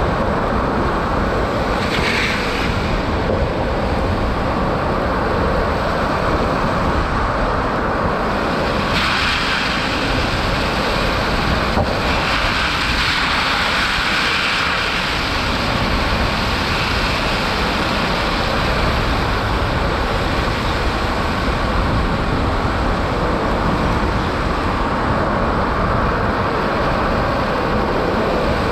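Steady tyre and wind noise from a Tesla Cybertruck driving along a snow-covered highway.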